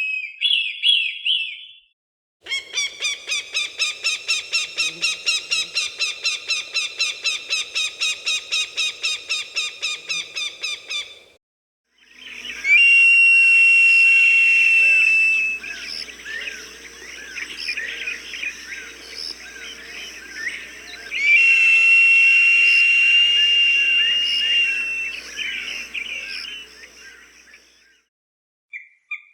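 Recorded hawk calls: a fast run of repeated harsh notes, about four or five a second for some nine seconds, then two long, high, drawn-out screams of about three seconds each over a busy layer of shorter calls.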